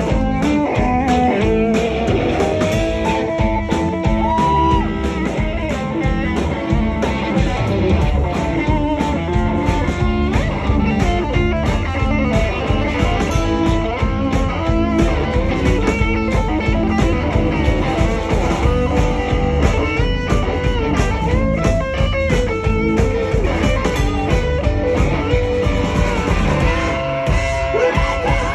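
Live rock band playing an instrumental passage led by guitar, over a steady beat.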